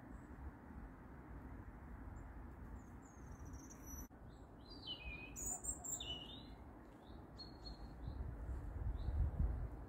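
Songbird singing: a series of short, high, varied warbling phrases, densest in the middle, over a low background noise that grows louder near the end.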